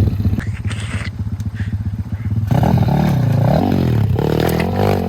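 Single-cylinder four-stroke pit bike engine running at a steady low chug, then revved up and down repeatedly from about halfway in, as the rider tries to push it through the river.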